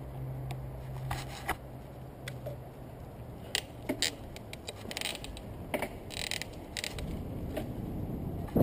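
Scattered small clicks, scrapes and rustles of something being handled close to the microphone, over a low steady hum that fades out about two and a half seconds in.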